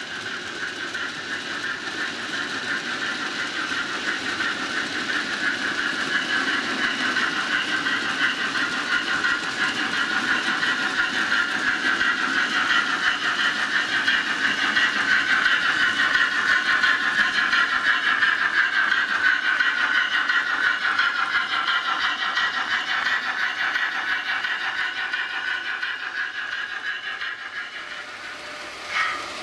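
Model train running along the layout track, a steady whirring rumble that grows louder towards the middle and fades again as it passes. A short click near the end.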